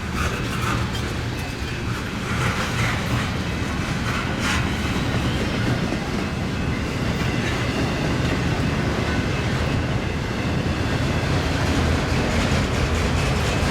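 Union Pacific mixed freight train rolling past, a steady rumble of wheels on rail with clickety-clack.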